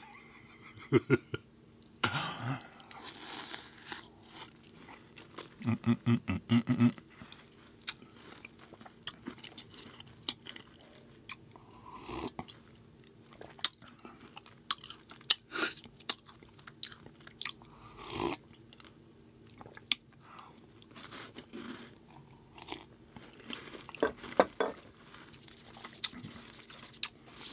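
Close-miked chewing and biting with crunches and wet mouth clicks, scattered irregularly through a stretch of otherwise quiet eating.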